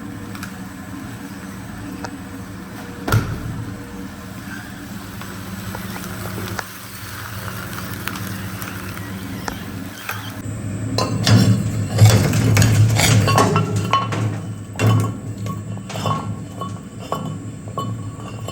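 Industrial shredder running with a steady low hum. From about ten seconds in it crunches and cracks through material, a dense run of cracks and clinks as pieces break apart.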